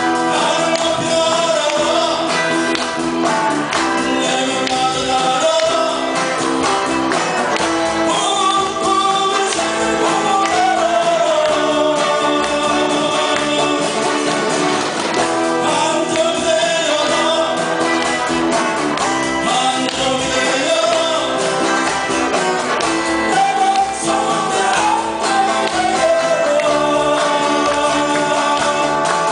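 Live band playing 7080-style Korean pop with a lead singer's voice carrying the melody over the instruments.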